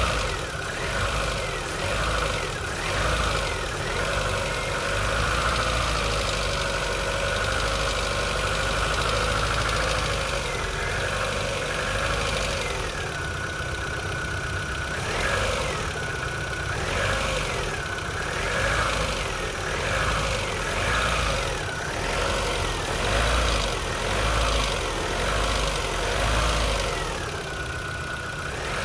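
Chevrolet Lacetti 1.6's four-cylinder petrol engine running with a persistent knock of unclear origin, which the owner suspects is a hydraulic lifter; the knock is louder from cold and does not go away when the engine warms up.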